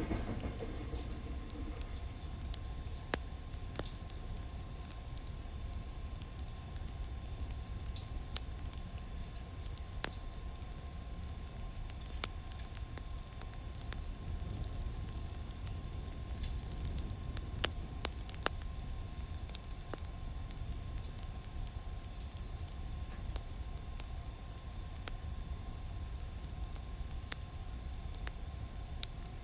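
Wood fire crackling, with sharp pops every second or two over a low rumble and a faint steady whine.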